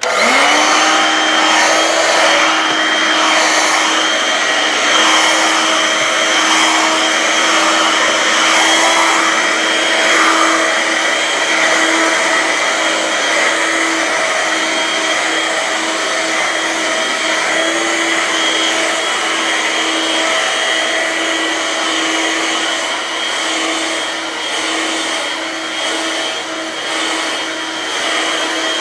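Dirt Devil vacuum cleaner switched on: its motor spins up at once, then runs steadily with a constant whine over a rushing hiss, swelling slightly as it is worked over the carpet.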